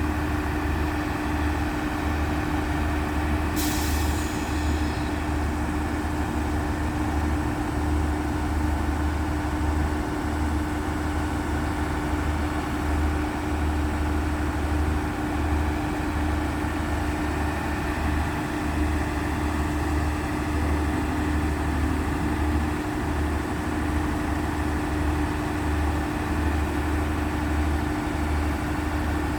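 Diesel train engine running steadily, a low pulsing rumble with a constant hum. A short hiss of air comes about three and a half seconds in.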